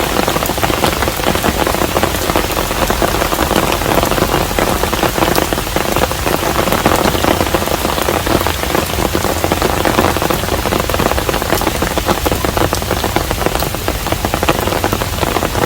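Steady rain falling on a hanok, a traditional Korean house, with many individual drops striking close by against an even hiss of rainfall.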